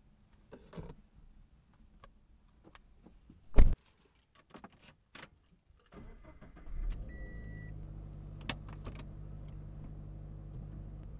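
Keys jangling and small clicks, a loud thump about three and a half seconds in, then a car engine starts about six seconds in and settles into a steady idle, with a short electronic beep just after it catches.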